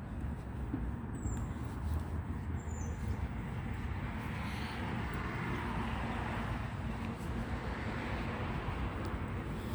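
Road traffic going by, with one vehicle's noise swelling and then fading in the middle.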